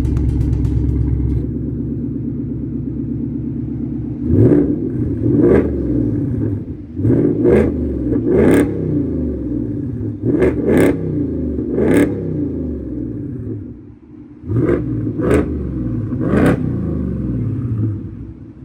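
Ford Mustang's 5.0-litre V8 idling through a Street Demon dual-mode performance exhaust, then blipped about a dozen times with short, sharp revs, some in quick pairs, each rising and falling back to the idle rumble.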